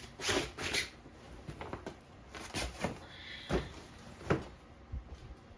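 Hands working on a car headliner board: about eight short knocks, snaps and rustles at uneven intervals, the two loudest right at the start and another near the end.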